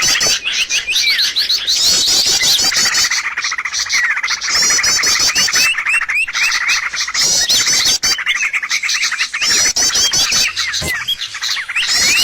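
Busy, continuous chirping and fast trilling of small birds: a bird-lure call (suara pikat) of the kind played to draw wild birds in.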